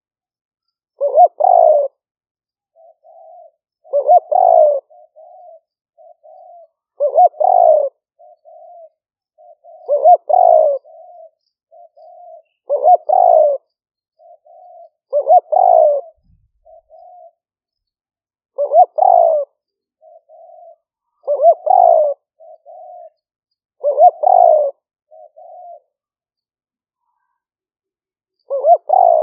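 Spotted dove cooing: a loud phrase about every three seconds, each followed by a few softer, shorter coos. It is a decoy bird's calling, the kind used to lure wild spotted doves.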